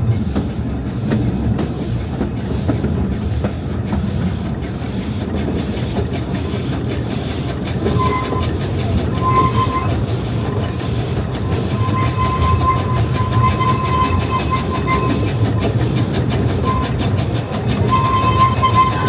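Narrow-gauge train running, with a regular beat of about two strokes a second. From about halfway a high thin tone comes and goes over it.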